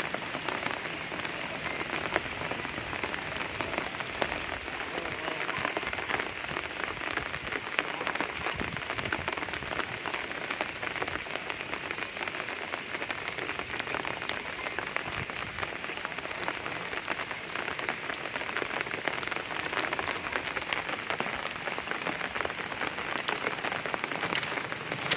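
Heavy rain falling steadily: a dense, even hiss full of individual drop impacts.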